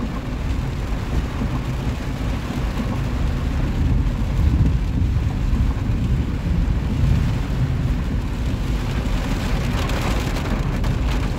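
Heavy rain pelting a car's roof and windshield, heard from inside the cabin as a steady dense hiss over a low rumble from the car.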